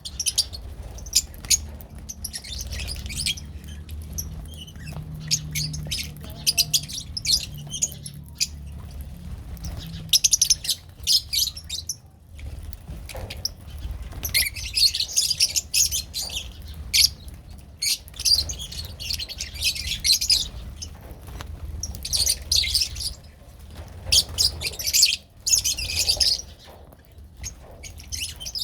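Lovebirds chirping in dense, irregular bursts of high-pitched calls, over a steady low hum.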